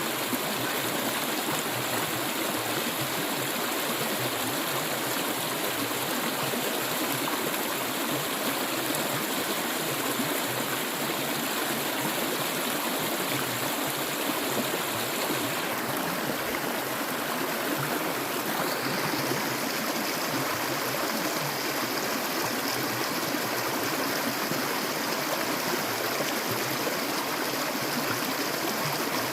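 Clear water flowing steadily, a continuous even rush with a small change in its high hiss a little past halfway.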